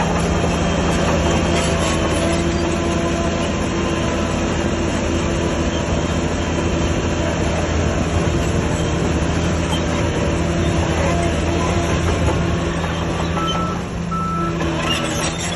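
Heavy diesel earthmoving machinery running steadily under load, with a backup alarm beeping in short, evenly spaced tones near the end.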